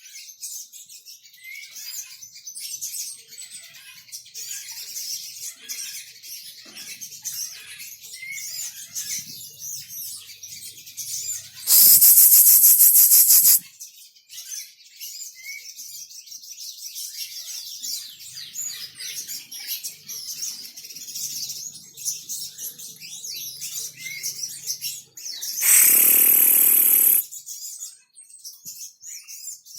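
Sunbirds twittering in rapid high chirps throughout, broken by two loud bursts of noise of about a second and a half each, one near the middle and one near the end.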